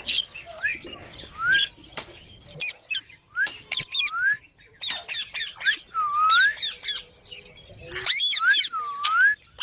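Pet green parrots calling over and over: short calls that dip and rise in pitch, mixed with harsh screeches.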